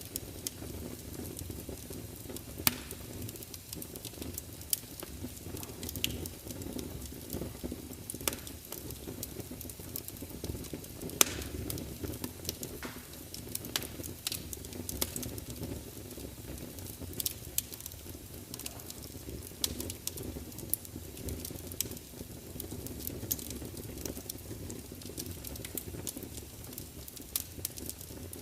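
Wood fire burning in a large open fireplace: a steady low rumble of flames with irregular sharp crackles and pops from the burning logs.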